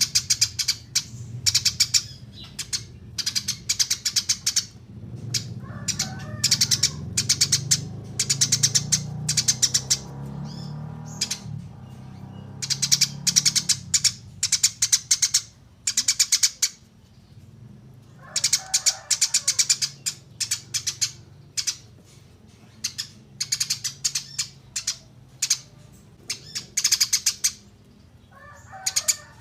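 Small songbirds singing: very high, rapid trills in bouts of a second or two, one after another, with a lower chattering call breaking in about three times.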